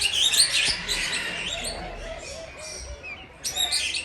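Many small aviary birds chirping and twittering together, a loud flurry of high chirps at the start, quieter chatter in the middle, and another burst near the end.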